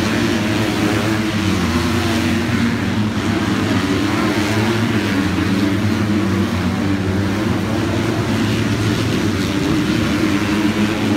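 Motocross bike engine running under load, holding a fairly steady pitch with small wobbles.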